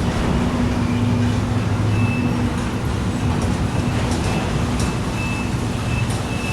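Diesel freight train running past with a steady low engine drone and rail and wheel noise.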